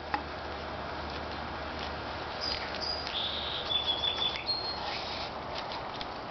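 A small bird chirping: a few short, high whistled notes between about two and a half and five seconds in, over steady outdoor background noise.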